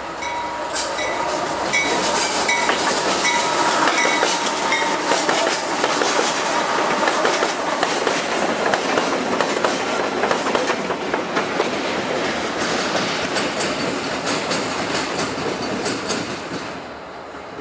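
CSX diesel locomotives passing close by at speed: engines running, with the wheels clicking rapidly over rail joints. A repeated ringing tone sounds through the first few seconds, and the passing noise eases off near the end.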